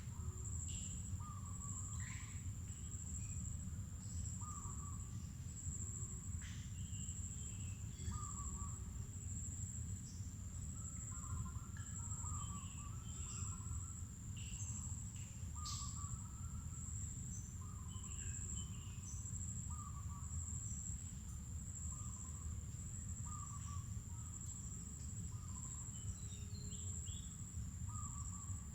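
Mangrove forest ambience: insects keep up a steady high-pitched trill while short low calls repeat about every two seconds, among scattered higher bird chirps, over a steady low rumble.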